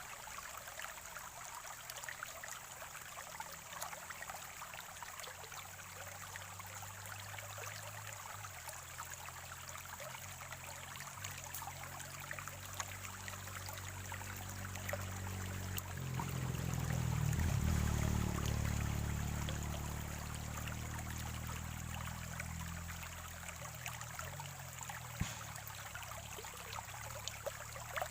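Spring-fed stream gurgling and trickling steadily. A low rumble swells and fades about halfway through.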